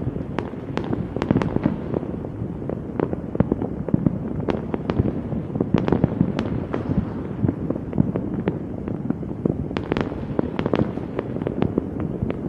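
Fireworks going off in a continuous barrage: many sharp cracks and pops, several a second, over a steady rumble of bangs.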